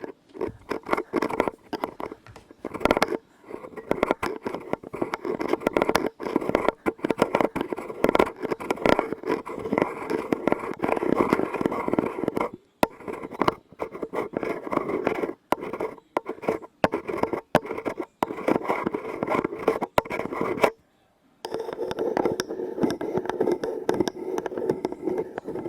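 Rapid, close-up tapping and scratching on objects. It keeps up a dense patter and stops briefly twice, about halfway through and again a few seconds before the end.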